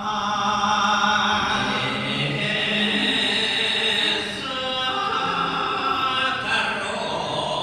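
A voice singing Thai lae, the melismatic chanted recitation, in long held notes that waver and bend in pitch.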